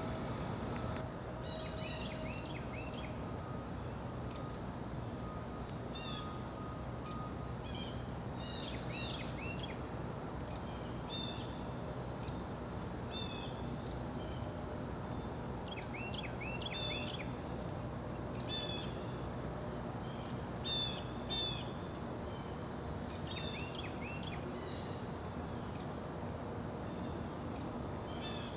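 Small birds chirping in repeated quick clusters of short high notes, about one cluster every second or two, over a steady background hum.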